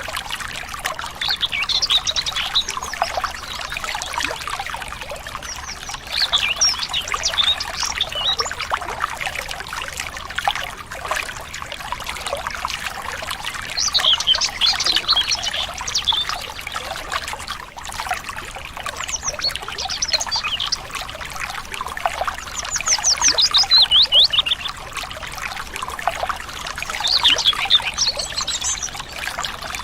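Water trickling steadily, as in a small stream, with songbirds singing short chirping phrases every few seconds; about three-quarters of the way through, one of the phrases is a fast, even trill.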